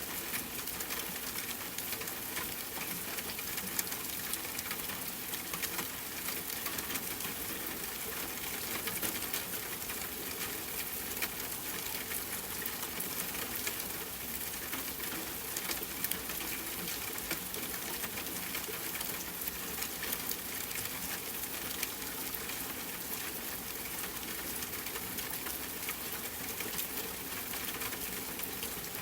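Steady hiss of rainfall mixed with the small, frequent pops and crackles of a wood fire burning in a fireplace.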